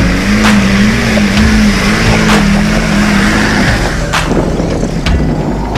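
Land Rover Defender 110 engine running under load while driving off-road, its note wavering and then changing about two-thirds of the way through, with a song's steady beat underneath.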